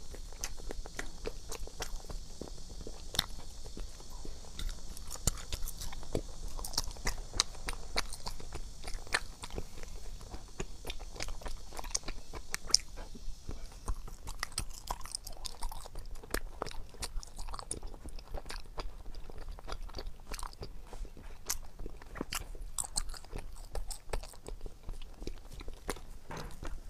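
Close-up eating sounds of a person biting and chewing crunchy food, picked up by a lapel microphone: a steady stream of short, sharp crackles and crunches.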